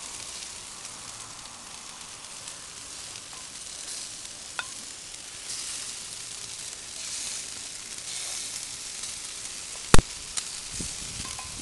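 Meat sizzling and crackling on a barbecue grill, a steady hiss. A single sharp click about ten seconds in, followed by a smaller one.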